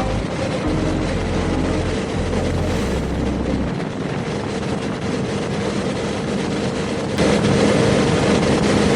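KTM Super Adventure 1290 S's V-twin engine at a steady cruise under heavy wind rush on the microphone. The rush gets louder about seven seconds in.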